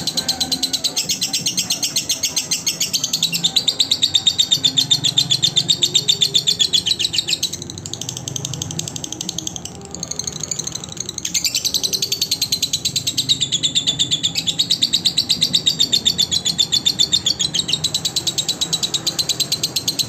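Lovebird singing a long, fast, unbroken chatter of high chirps. It eases off for a few seconds about eight seconds in, then picks up again at full pace.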